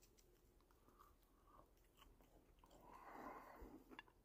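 Faint chewing of fire-roasted muskrat meat: soft, scattered clicks of the mouth working, a little louder a few seconds in.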